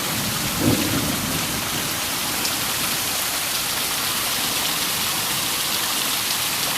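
Heavy rain pouring down hard in a thunderstorm: a steady, even hiss of rain hitting the ground and surfaces. A brief low sound comes about a second in.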